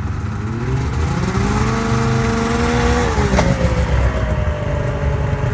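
Yamaha SRX 700 snowmobile's three-cylinder two-stroke engine speeding up and holding, then dropping off as it slows, with a single sharp bang about three and a half seconds in. The bang is the low-speed braking noise that pushes the drive belt down into the secondary clutch.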